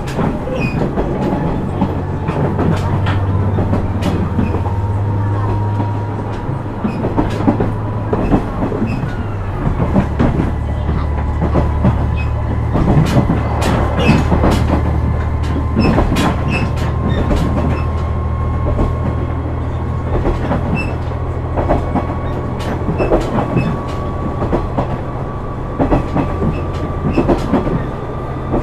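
KiHa 126 series diesel railcar running, with a steady diesel engine drone whose note changes about ten seconds in. Rhythmic rail-joint clicks run over it, along with a faint whine that rises slowly.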